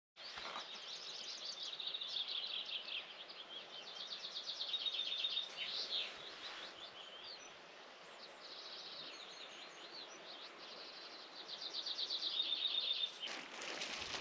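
Songbirds singing outdoors, phrase after phrase of rapid high trills, over a faint steady background hiss.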